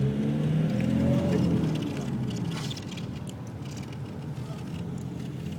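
A vehicle engine rising in pitch for about the first second, then dropping and fading away, leaving a steady, quieter road-like rumble.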